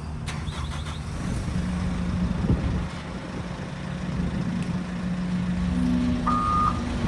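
Skid steer's diesel engine running steadily, with its reversing alarm starting to beep near the end as the machine begins to back up.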